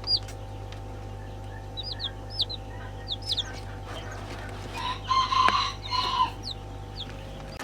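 Chickens calling, with a louder drawn-out call in three parts about five seconds in, and short high peeps scattered throughout.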